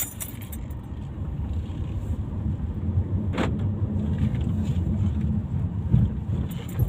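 A motor vehicle's engine running: a steady low hum that builds over the first second or so, with one brief sharper sound about three and a half seconds in.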